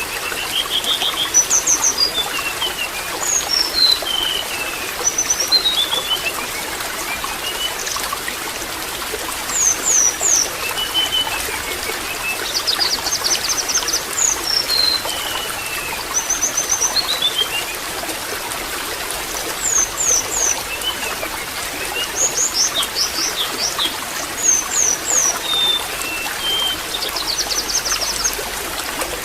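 Water trickling steadily with songbirds chirping over it: falling runs of short notes, quick high trills and repeated short calls every second or two.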